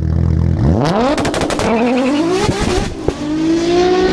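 Car engine idling, then revving up hard, its pitch climbing steadily and dropping once near three seconds in as at a gear change, before holding steady. A quick series of sharp cracks comes early in the run.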